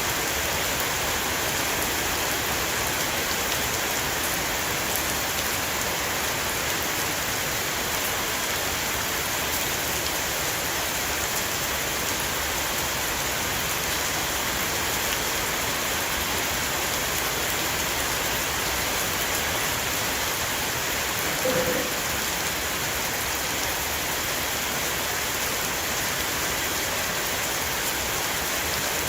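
Steady heavy rain shower falling on a roof, an even hiss of drops. About two-thirds of the way through there is one brief, slightly louder short tone.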